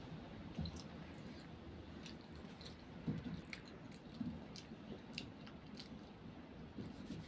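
A child chewing a mouthful of Maggi instant noodles, close-up mouth sounds with scattered small clicks and a few soft low thumps.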